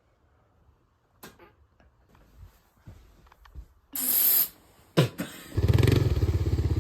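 Faint clicks and handling noises, then a short, sharp hiss about four seconds in, like an aerosol can spraying. A song with a steady beat starts about a second later and is the loudest sound.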